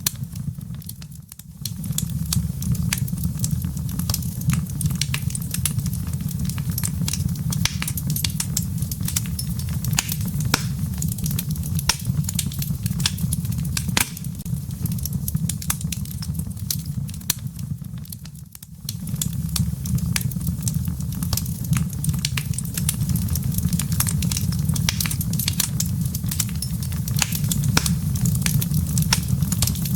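Wood fire burning in a fireplace: a dense, irregular crackle of embers over a steady low rumble of flames. The sound dips briefly twice.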